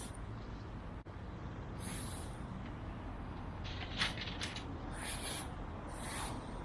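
Food grilling over a small wood fire in a fire pit: short hissing spurts several times and a sharp crackle about four seconds in, over a steady low rumble.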